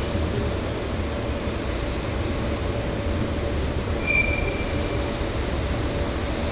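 A train moving through a station: a steady low rumble with a faint steady whine, and a brief high-pitched squeal about four seconds in.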